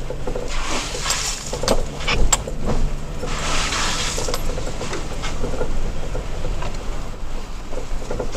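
Toyota Tacoma pickup driving a rough off-road trail, heard from inside the cab: a steady low engine hum under frequent rattles, knocks and clicks as the truck jolts along. Two short stretches of hiss come about a second in and again around three and a half seconds.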